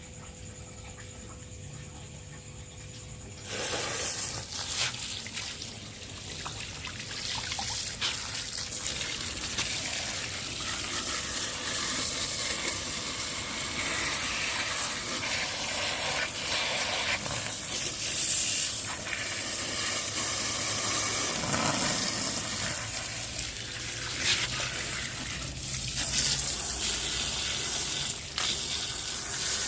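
Pressure-washer jet spraying water onto a mud-covered model truck. The spray starts about three and a half seconds in and runs steadily as a loud hiss.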